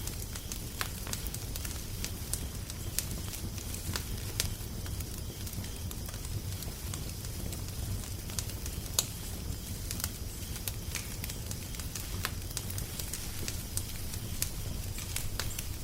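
Crackling fire: irregular sharp pops and snaps, one louder pop about nine seconds in, over a steady low rumble.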